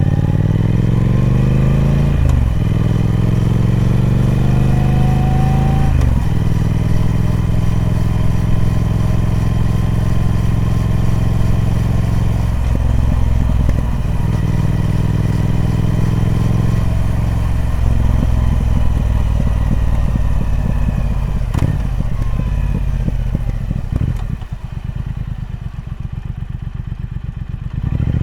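A Triumph Speed Twin's 1200cc parallel-twin engine through its stock exhaust, pulling hard as the revs climb, with two upshifts in the first six seconds, then holding a steady cruise. Later the revs fall away and it drops to a low, pulsing beat before picking up again right at the end.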